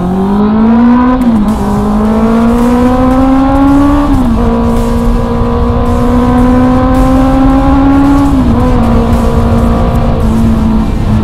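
Honda CB650R's inline-four engine accelerating through the gears. The pitch climbs and drops sharply at each of three upshifts, about one, four and eight and a half seconds in, then holds nearly steady at cruising speed.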